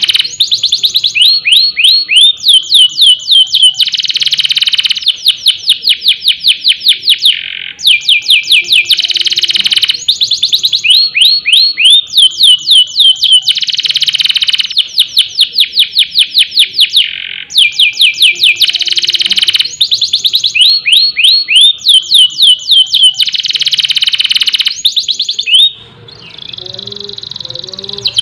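Domestic canary singing loud, fast rolling trills and runs of sharp sweeping notes in repeating phrases. About 26 seconds in, the song gives way briefly to a softer, lower passage before the trills resume.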